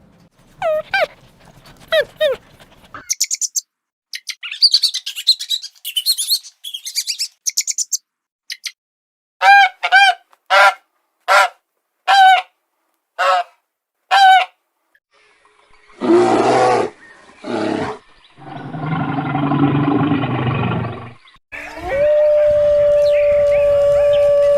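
A run of different animal calls, one after another: bird chirps, then a string of about six honking bird calls, then two rough calls and a longer grating call, and near the end a long, steady howl, typical of a dog.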